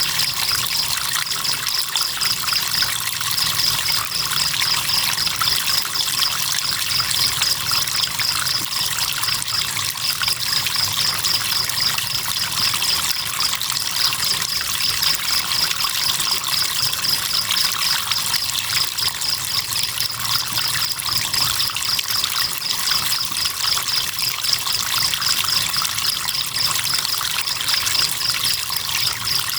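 Crickets chirping in a fast, even pulsing trill over the steady trickle and hiss of running river water.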